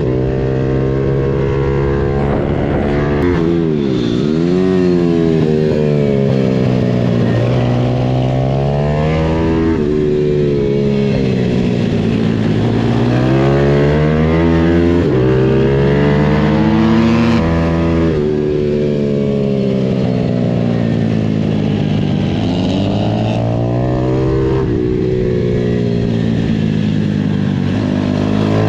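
Single-cylinder pitbike engines revving up and down on a kart track, pitch climbing under throttle and dropping off under braking, over and over. At times more than one bike is heard, their pitches crossing.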